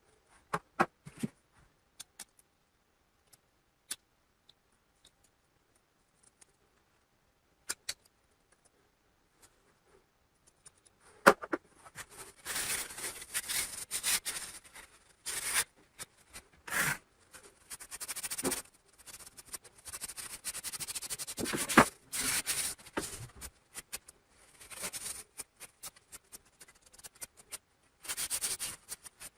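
Hand work on a laptop during fan cleaning: scattered small clicks and taps, then, from about eleven seconds in, repeated scraping and rubbing strokes broken by a couple of sharp knocks.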